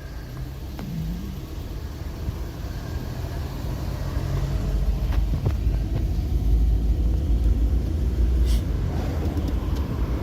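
Car passing along a road, a low rumble that grows louder through the first half and stays loud, with a few faint clicks.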